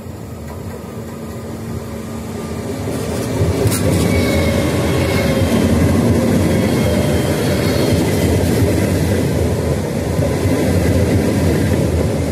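A Frecciargento high-speed electric train runs through the station without stopping. Its noise builds over the first few seconds as it comes in, then holds loud and steady as the carriages rush past. A sharp crack sounds about three and a half seconds in.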